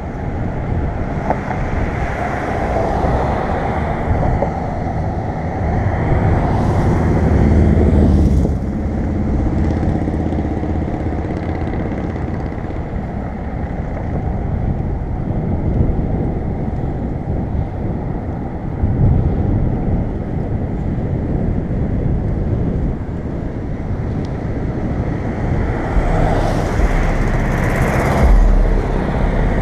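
Wind rushing over the microphone of a moving bicycle, with road traffic: motor vehicles pass close by twice, about seven seconds in and near the end.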